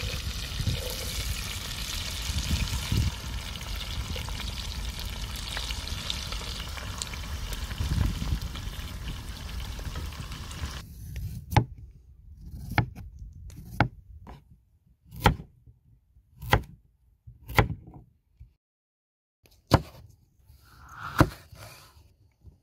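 Venison shank frying in hot fat in a cast iron pot, a steady sizzle. About eleven seconds in it stops abruptly, giving way to a kitchen knife chopping carrots and red pepper on a wooden board: about eight sharp chops, roughly one a second.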